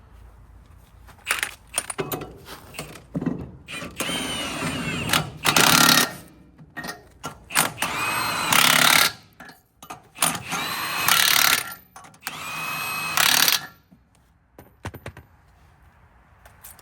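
Power tool, such as an impact wrench or drill, running lug nuts onto a wheel as a tire goes back on the car. It runs in about seven short whining bursts of roughly a second each, with short pauses between them.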